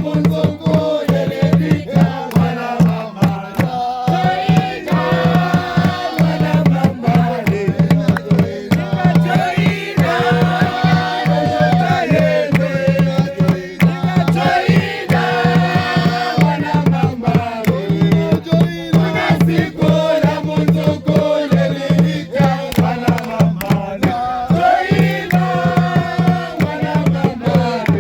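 A group of voices singing together over fast, steady drumming.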